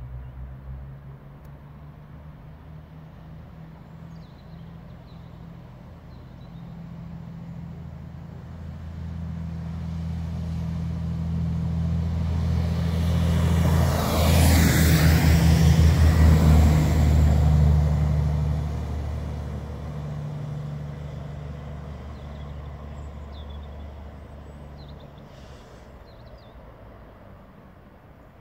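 A train approaching and passing by: a low hum builds, peaks with a loud rush of wheel and rail noise about fifteen seconds in, then fades away.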